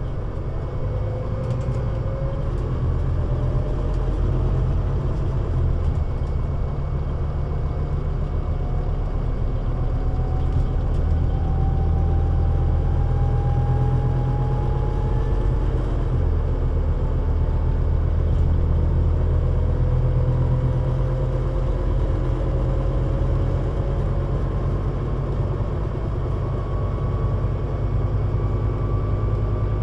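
Scania Citywide LFA (CN320UA 6x2/2) three-axle city bus driving: a steady low engine and road rumble, with a faint whine that rises slowly in pitch as the bus gathers speed, twice over.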